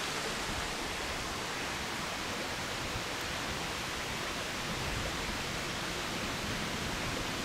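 Small creek running over rocks: a steady, even rush of water.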